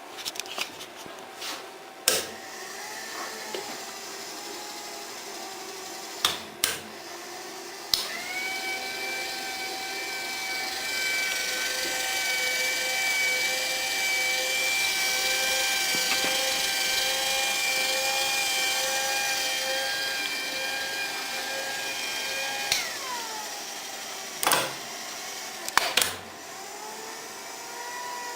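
The inverter-driven motor of a homemade milling machine spins up with a quickly rising whine about eight seconds in. It runs steadily for about fifteen seconds, then winds down with a falling whine. Sharp knocks and clicks come before the start and again after it stops.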